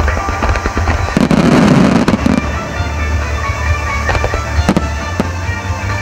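Fireworks bursting: a dense cluster of bangs and crackle about a second in, then scattered single reports. Music with a deep steady bass plays under it.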